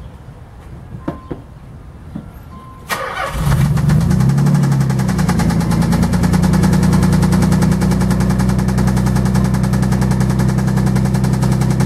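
A few short beeps and clicks as the ignition is switched on. Then the 1990 Nissan 300ZX's V6 cranks briefly, catches with a rev that rises and falls, and settles into a loud idle with a fast repetitive knocking the owner calls a racketing noise. It appears as soon as the engine starts and speeds up with RPM; the owner fears it is an engine fault doing damage.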